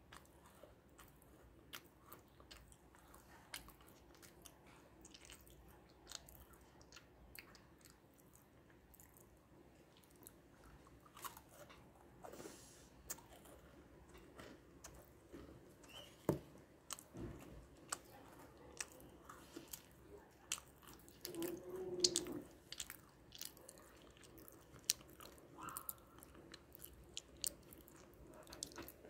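Crisp gingerbread cookies being chewed, with many small sharp crunches as the biscuit breaks between the teeth and a few louder bites among them.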